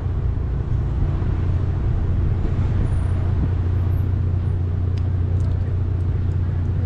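Car stopped in traffic: a steady low engine hum with street traffic noise.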